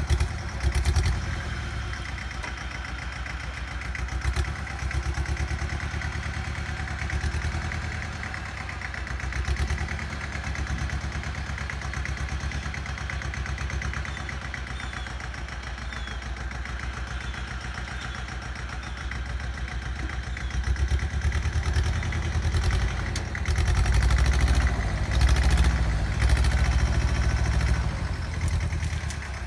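Bolens G194 compact tractor's diesel engine running steadily while it works a scraper blade through dirt, growing louder near the end as it takes on more load.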